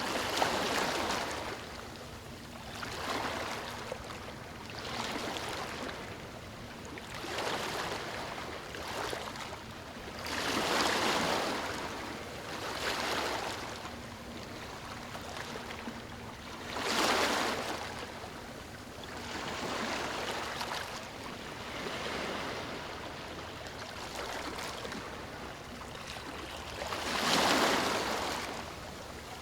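Ocean waves washing onto a beach: a steady hiss of surf that swells and fades every few seconds, with a bigger breaker about 11, 17 and 27 seconds in.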